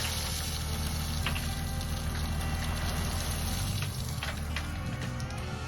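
A truck engine running steadily under a constant hiss of rain. The low engine hum drops a little about four seconds in.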